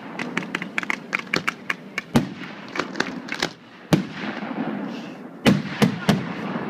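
Aerial fireworks going off: a fast run of crackling pops, with several louder bangs spread through the second half.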